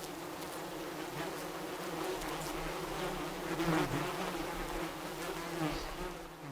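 Bees buzzing: a steady, droning hum that wavers slightly.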